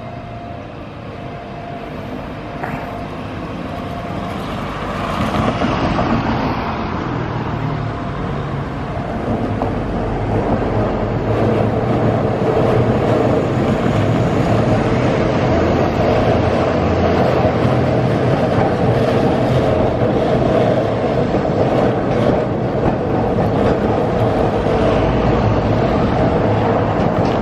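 Keihan two-car electric train running on street-level tram tracks, growing steadily louder over the first dozen seconds as it approaches, then a loud, steady rumble of wheels and motors as it rolls past close by.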